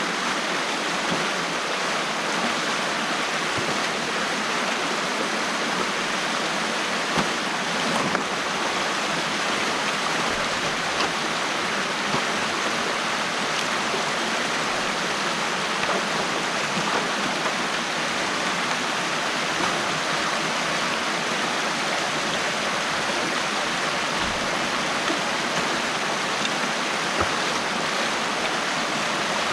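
Stream water rushing steadily through a gap in a beaver dam, with a couple of faint knocks about seven and eight seconds in.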